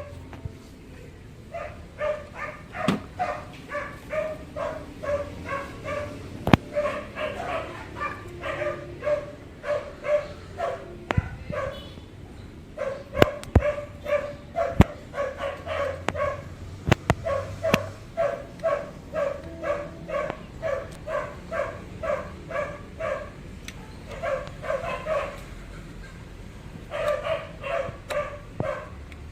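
A small dog barking over and over in quick high-pitched yaps, about two a second, in long runs with short breaks. Several sharp clicks are heard among the barks.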